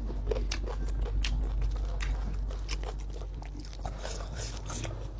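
A person biting and chewing food, with irregular crisp crunches about two a second over a steady low hum.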